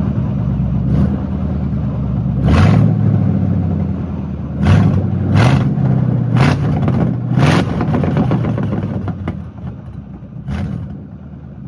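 Ford 4.6-litre V8 running on open headers, its exhaust manifolds off, idling loud and raw with about six short throttle blips that sharpen into a bark, settling lower near the end.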